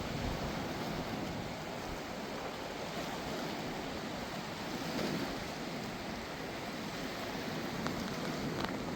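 Swollen, fast-flowing river water rushing steadily.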